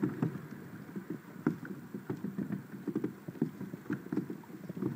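Water lapping against a kayak hull, with irregular small slaps and knocks.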